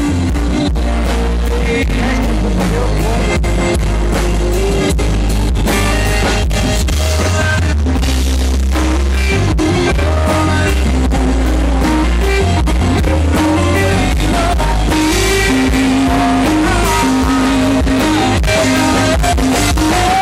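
Live country band playing loud: electric guitar carrying a melody over bass and drums, with some singing.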